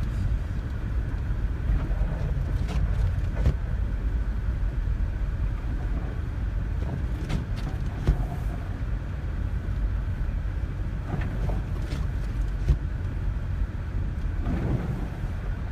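Steady low rumble of a small passenger car's engine and tyres, heard from inside the cabin while driving on packed snow, with a few faint clicks and knocks scattered through it.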